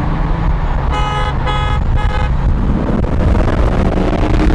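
A car horn honks three times in quick succession over a running engine. The engine then revs up in the last second or so.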